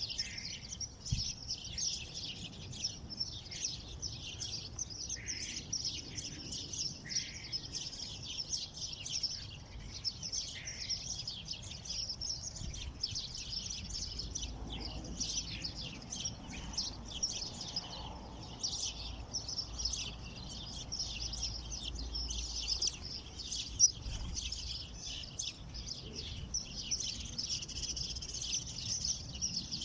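A flock of small songbirds chirping and twittering together, a dense, continuous stream of short high calls, with one sharp louder tap a little past two-thirds of the way through.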